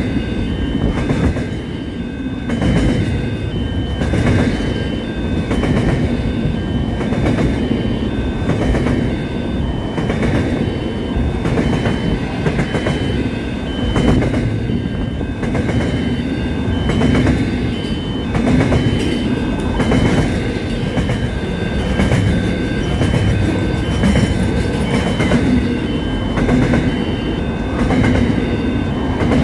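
Container freight train passing close by: a steady rumble of wagons with repeated clacks as the wheels roll over rail joints. A high ringing tone comes and goes in short pulses over the top.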